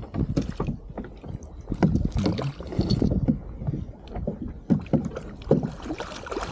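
Kayak on the water: irregular knocks and thuds against the hull mixed with water splashing.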